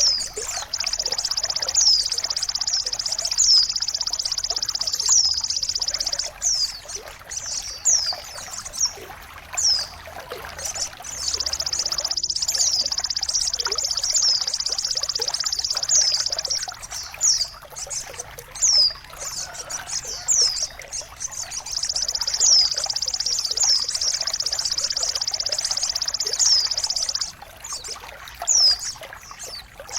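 Birdsong mastering track for songbirds: short high chirps falling in pitch, repeated about once a second, over a steady high hiss or buzz that cuts out and resumes every few seconds.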